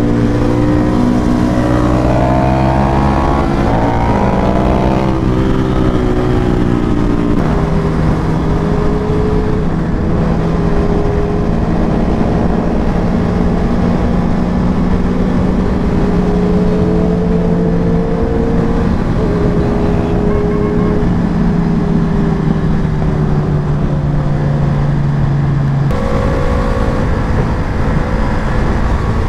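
KTM RC200 single-cylinder engine heard from on board while riding, climbing in pitch as it accelerates over the first few seconds, then holding a steady note at cruising speed, with sudden changes in note about seven seconds in and near the end. A steady rush of wind and road noise runs underneath.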